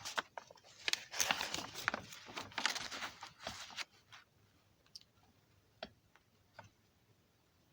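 Crackling, rustling handling noise for about four seconds, then three scattered clicks.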